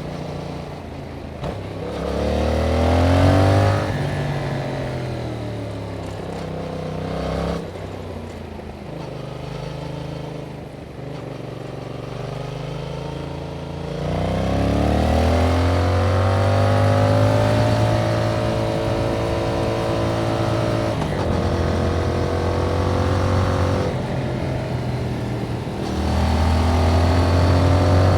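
Yamaha MT-07's 689 cc parallel-twin engine on the stock exhaust under way. Revs rise and fall several times as the rider accelerates and rolls off, with a quieter stretch of lower revs in the middle, then louder, steadier pulling near the end.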